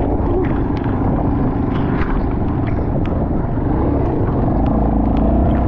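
Kawasaki KLX230's single-cylinder four-stroke engine running steadily under way on a muddy dirt track, with scattered short clicks and knocks over the low rumble.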